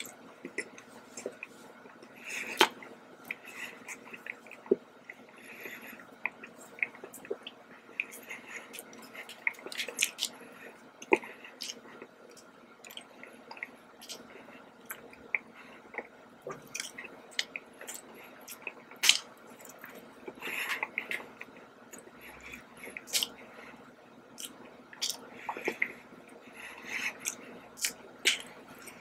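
A person chewing and biting into a red-glazed donut, giving many small sharp mouth clicks at irregular intervals.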